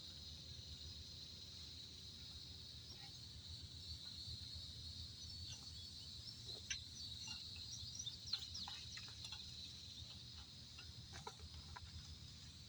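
Faint outdoor ambience: a steady high-pitched insect drone with scattered short bird chirps and clicks. No engine is heard running.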